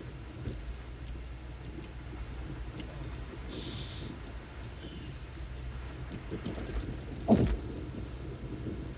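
Car driving, heard from inside the cabin: a steady low rumble of engine and tyres, with a short hiss about three and a half seconds in and a brief thump a little after seven seconds.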